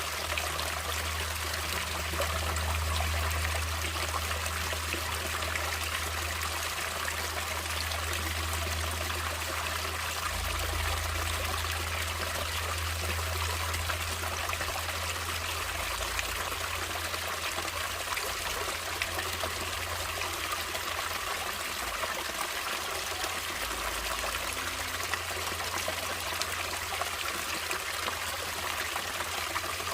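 Natural running water of a stream flowing steadily: a continuous trickling, splashing rush, with a deep low rumble underneath that swells and eases every few seconds.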